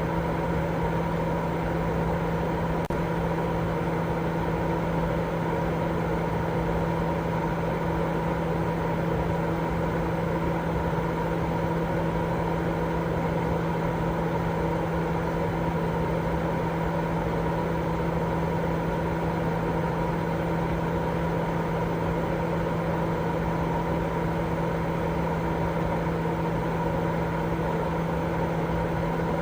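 Continuous sleep white noise: an even, unchanging rushing noise, fullest in the low and middle range, with a steady low hum and fainter higher tones running through it.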